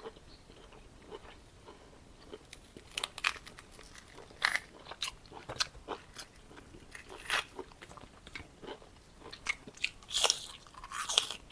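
Close-miked eating: a person chewing with irregular crisp crunches and wet clicks, sparse at first and more frequent after a couple of seconds.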